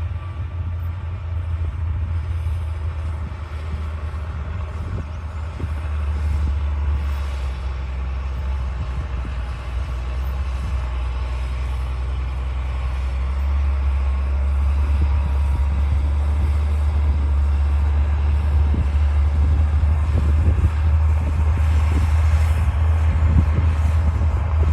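D60 crawler bulldozer's diesel engine running steadily under load, a deep drone that grows gradually louder in the second half.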